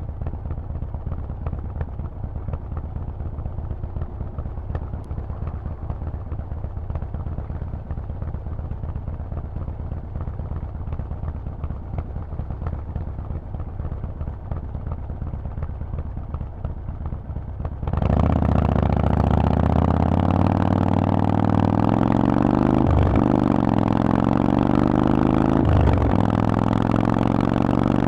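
Harley-Davidson Forty-Eight's air-cooled 1200 cc V-twin through a Vance & Hines exhaust: a steady low rumble at first. About two-thirds in it suddenly gets much louder under throttle, its pitch climbing slowly and dropping briefly at each of two or three gear changes.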